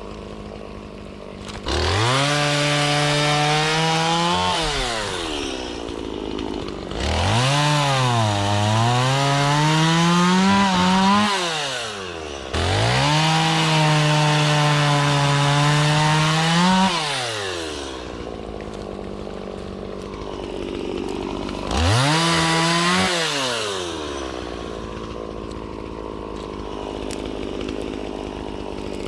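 Stihl two-stroke chainsaw revved up to full throttle four times, falling back to idle between bursts. In the second burst the engine pitch sags and climbs back twice, as the chain bogs under load cutting into the willow wood.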